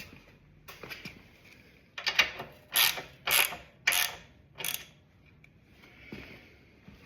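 Ratchet wrench being worked on a fastener: a run of about six ratcheting strokes, roughly two a second, with a few fainter ones before and after.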